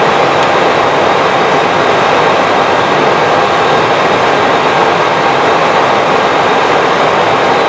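Steady rushing background noise on the flight deck of an Airbus A320, with a few faint steady tones and no change in level.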